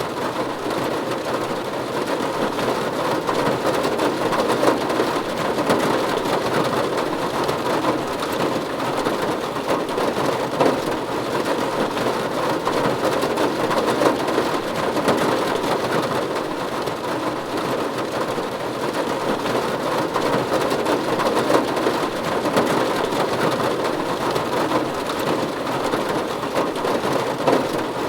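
Steady rain falling on a roof: an even, dense patter of drops, with a few louder single drops standing out now and then.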